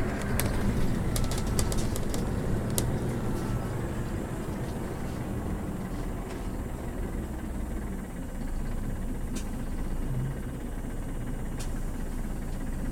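City bus running, heard from inside the cabin: a steady low engine and road rumble with a few sharp clicks and rattles, most of them in the first few seconds.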